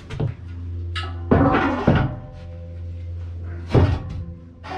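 A few hard knocks and bumps, with a cluster about a second in and another near the end, over background music and a steady low hum.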